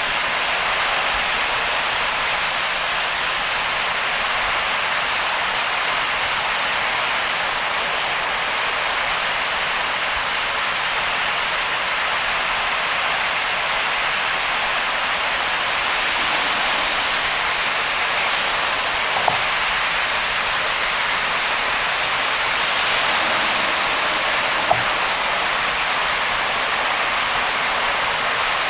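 Heavy rain on a car driving through a downpour, a steady hiss of rain and tyre spray on the wet road. Two short sharp clicks stand out, one about two-thirds of the way in and another a few seconds later.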